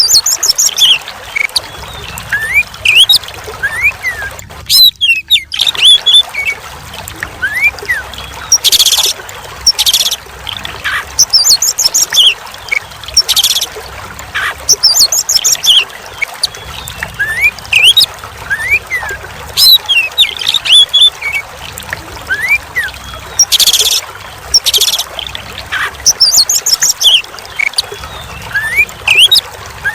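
Oriental magpie-robin (kacer) singing again and again in varied whistled notes and chattering phrases, over steady trickling, pouring water. The sound drops out briefly about five seconds in.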